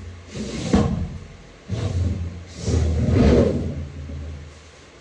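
Heavy metal transmission case being shifted and handled on a workbench: three rumbling scrapes and knocks in the first four seconds, then quieter.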